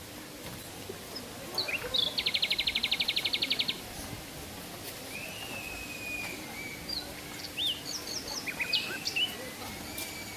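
Wild birds singing: a fast, even trill about two seconds in, lasting under two seconds and the loudest sound here, then scattered short chirps and whistles, over a steady background hiss.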